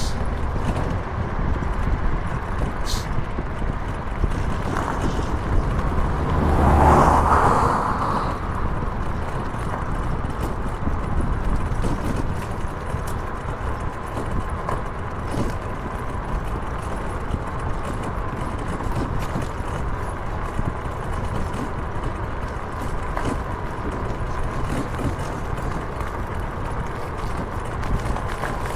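Steady road and wind noise while riding along a cycle lane beside traffic, with a motor vehicle passing about seven seconds in, its sound swelling and fading.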